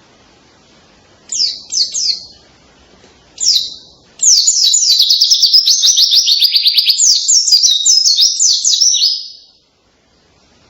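White-eye (pleci) singing a loud, canary-like song: a few short, sharp falling notes, then a long, rapid run of high falling notes lasting about five seconds, ending about a second before the end.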